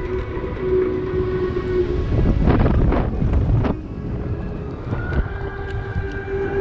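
Wind buffeting the microphone in flight, over a steady droning hum whose pitch steps up about five seconds in. The buffeting is loudest between two and four seconds in.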